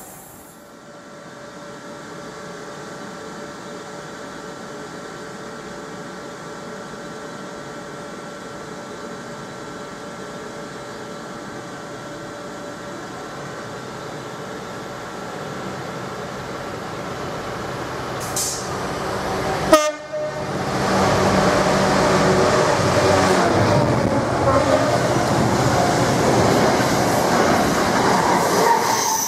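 For most of the clip a Class 350 electric multiple unit stands at a platform, giving a steady electrical hum with faint steady tones. About twenty seconds in the sound jumps to a much louder, steady rush and rattle as a container freight train passes close by at speed.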